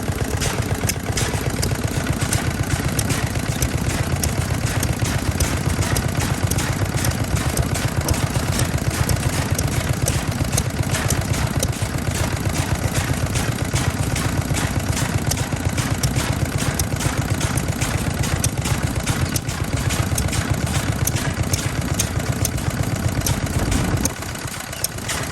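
Vintage stationary engine running with a steady, rapid beat. The sound drops away about a second before the end.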